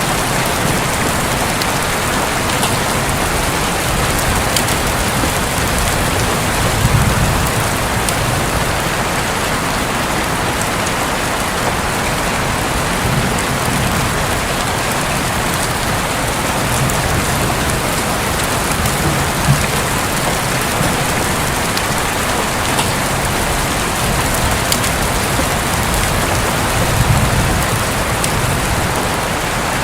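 Heavy rain falling steadily on a roof, a dense even hiss. Low rumbles of thunder swell up several times under it.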